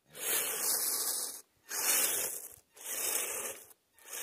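RC vehicle scrabbling over icy, crusted snow in four bursts of about a second each with short pauses between, the scraping of its tracks or tyres struggling for grip.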